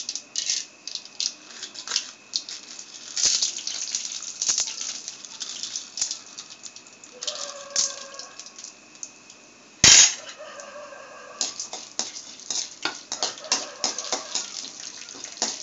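Mustard seeds and chana dal crackling and sizzling in hot ghee in a steel kadai, with a steel slotted ladle stirring and scraping the pan. One loud metallic clank about ten seconds in.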